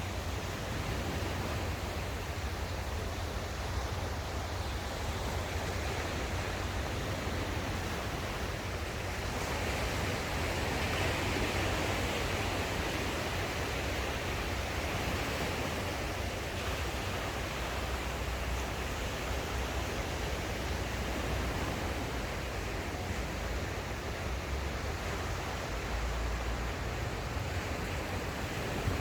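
Sea waves washing on the shore as a steady surf noise, swelling into a louder wash about a third of the way in, over a constant low rumble.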